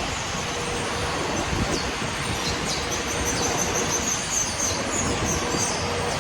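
A New York City 7 subway train running on the elevated track overhead: a steady rumble with a high wheel squeal for a few seconds in the second half. A few short high chirps from small birds are heard over it.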